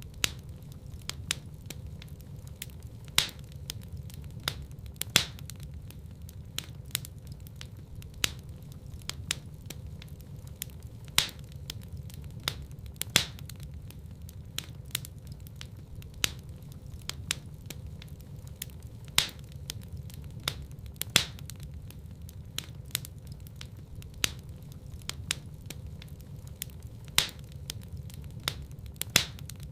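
Wood fire crackling in a fireplace: irregular sharp pops and snaps, several a second, a few much louder than the rest, over a steady low rumble of the flames.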